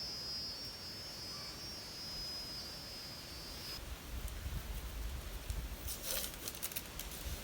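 An insect's steady, high-pitched buzzing drone that cuts off a little past halfway. Low rumbling and a quick flurry of sharp clicks follow near the end.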